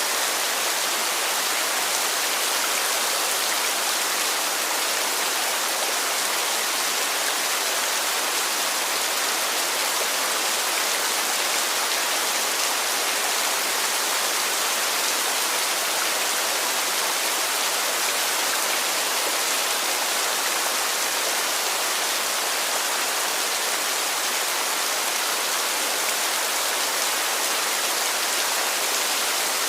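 Heavy rain falling steadily, an even, unbroken hiss with no single drops or rumbles standing out.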